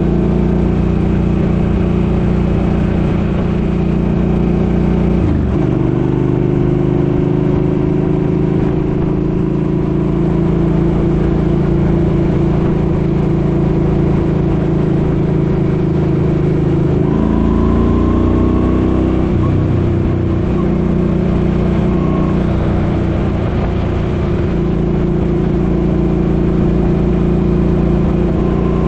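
Suzuki Boulevard M50's 805 cc V-twin engine running under way with wind noise. The engine note jumps in pitch at about five seconds, climbs as it accelerates from about seventeen seconds, then drops again near twenty seconds, as with gear changes.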